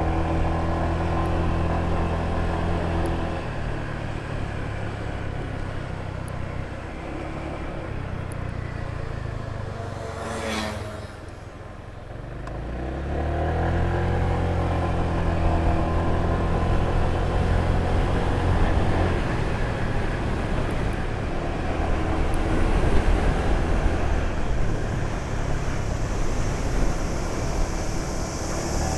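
Honda PCX125 scooter's single-cylinder four-stroke eSP engine running under way. The engine note drops as it slows about eleven seconds in, then picks up again as it accelerates and holds a steady cruise.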